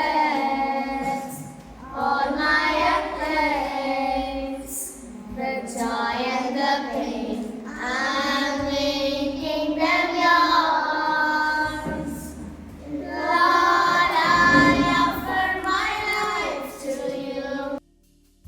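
A child singing a song in long melodic phrases with brief pauses between lines; the singing cuts off abruptly near the end.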